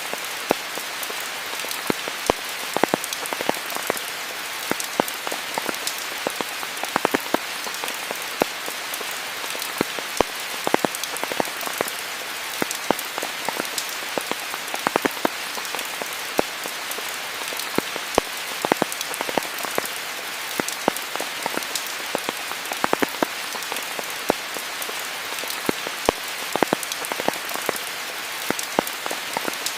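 Steady rain falling on foliage in a rainforest: an even hiss with many close, sharp drop impacts scattered throughout.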